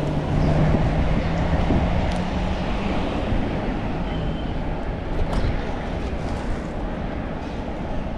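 Road noise from cycling along a road, with wind rumbling on the microphone and a motor vehicle's steady engine hum in the first few seconds that fades away.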